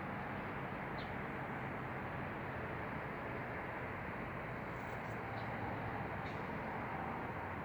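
Steady rushing outdoor background noise, with a few brief, faint high bird chirps scattered through it.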